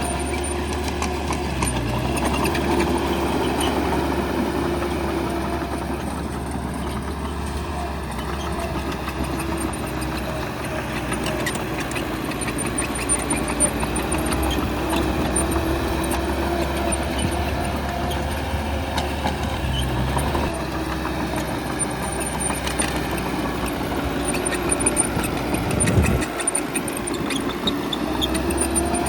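Bulldozer's diesel engine running steadily, its pitch shifting a little with load, with scattered clanks and a louder thump near the end.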